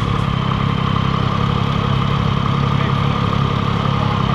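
Yamaha MT-09's 890cc inline-triple engine idling steadily on its stock exhaust.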